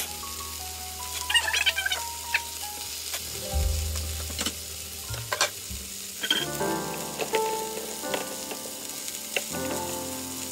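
Chicken breasts sizzling as they pan-fry in hot olive oil in a stainless steel pan, with scattered small pops and crackles.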